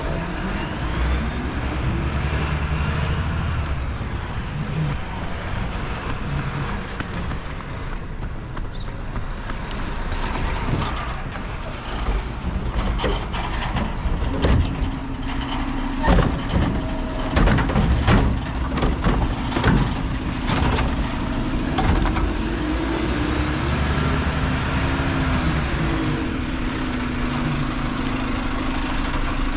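Mack LR refuse truck with a Heil recycling body working its route: the diesel engine runs throughout and the air brakes hiss. Through the middle there is a run of sharp knocks and clanks, and from about halfway a steady hum joins the engine.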